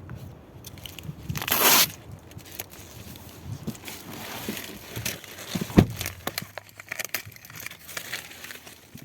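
Plastic protective wrapping on a new car being handled, crinkling and rustling, with a louder tearing sound about a second and a half in and a knock near the middle.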